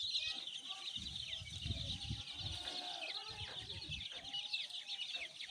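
A brood of chicks peeping all together in a dense, continuous stream of short high chirps, with a mother hen's lower clucking calls beneath. Low muffled rumbles come about a second in and again after three seconds.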